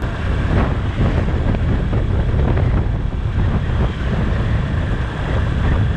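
Heavy wind buffeting on the microphone of a motorcycle on the move, with engine and road noise underneath.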